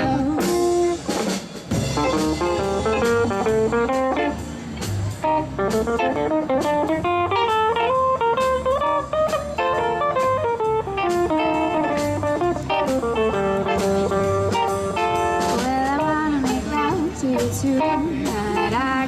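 Live rock band with saxophone, electric guitars, bass and drum kit playing an instrumental passage: a lead melody line runs up and down in quick runs over a steady bass and drum groove, with no singing.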